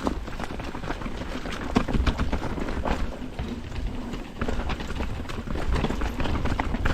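Mountain bike rolling over rough trail: a steady rumble of tyres and wind with frequent sharp clicks and rattles from the bike.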